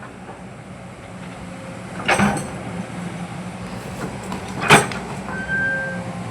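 Excavator's diesel engine running steadily with a low hum. Two sharp knocks come about two and a half seconds apart, the second louder, and a brief high steady tone sounds near the end.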